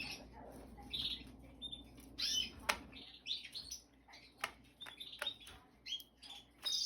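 Domestic canaries chirping and calling in short notes throughout, with a few sharp clicks among them.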